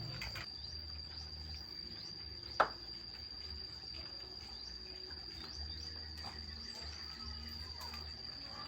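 A steady high-pitched insect trill, like a cricket, with faint short chirps, and a single sharp click about two and a half seconds in.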